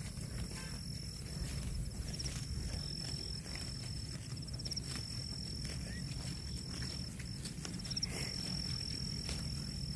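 An insect calling with a steady high-pitched buzz, broken every couple of seconds by short pulsing trills, over a steady low rumble and a few faint ticks.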